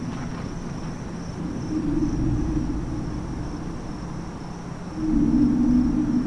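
Low, droning rumble with a thin, steady high-pitched whine over it; the rumble swells about two seconds in and again, louder, about five seconds in.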